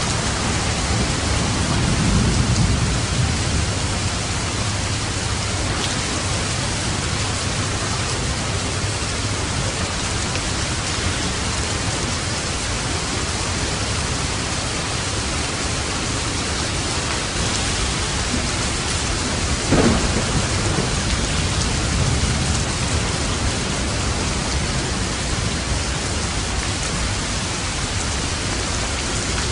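Steady rain falling, with a low roll of thunder a couple of seconds in and a sharp thunderclap about two-thirds of the way through, followed by a rumble.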